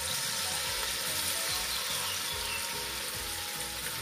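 Spoonfuls of corn fritter batter frying in hot oil in a pan, a steady sizzle.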